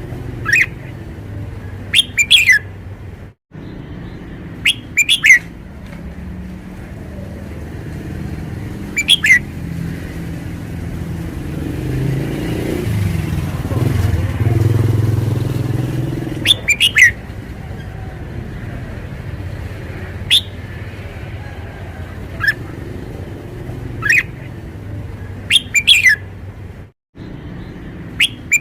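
Caged red-whiskered bulbul singing short, sharp whistled phrases every few seconds. A steady low traffic rumble runs underneath and swells around the middle as a vehicle passes.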